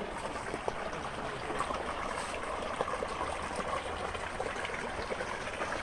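Creek water running steadily over rocks, a continuous rush, with scattered small clicks on top.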